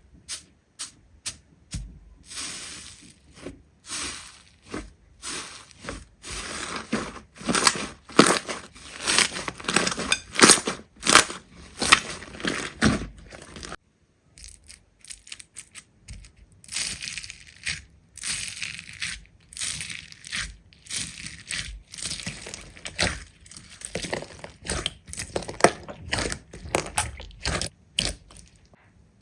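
Slime being squeezed and pressed by hand, with dense crackling and popping that stops briefly about halfway through.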